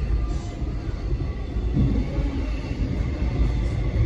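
X'Trapolis electric train in motion: a steady rumble of wheels on the rails, with a faint thin high whine over it.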